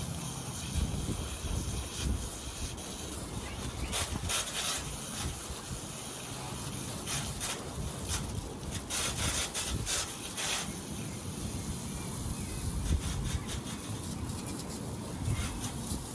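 Water being sprayed in intermittent hissing bursts against wire rabbit cages while they are cleaned, over a steady low hum.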